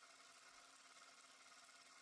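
Near silence: a faint, steady hiss with a low, even hum underneath.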